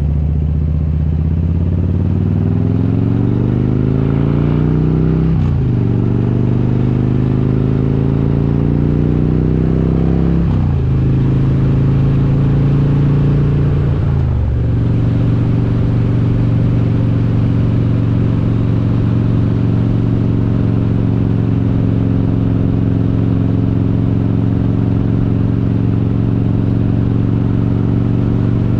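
Harley-Davidson Road King's S&S 95-inch V-twin with Super Stock heads pulling hard through the gears: the engine note climbs, drops sharply at each of three upshifts about five seconds apart, then settles into a steady cruise.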